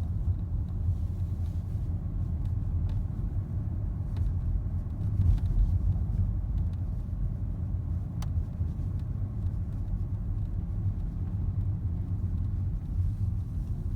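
Steady low road and engine rumble inside a moving 2016 Nissan Altima's cabin, with a few faint, sharp rattling clicks scattered through it. The clicks come from the combination meter (instrument cluster), a rattle that appears in warmer weather.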